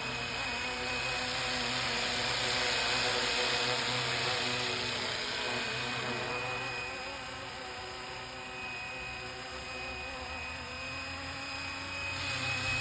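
Fly Wing BO-105 electric RC helicopter in flight: a steady motor-and-rotor whine whose pitch wavers slightly as it manoeuvres.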